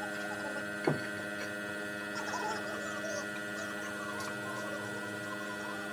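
A steady hum made of several held tones, with one sharp knock about a second in and a few faint clicks.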